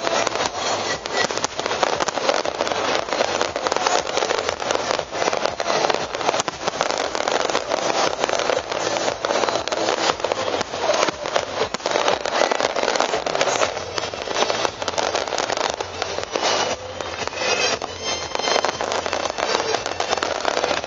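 Fireworks display: a dense, unbroken crackle of many small bursts popping in quick succession.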